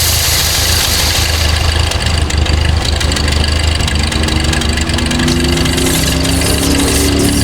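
Old Ford N-series tractor's four-cylinder engine running steadily at slow throttle with the PTO engaged, turning a roller pump. From about three seconds in a faint whine rises slowly in pitch.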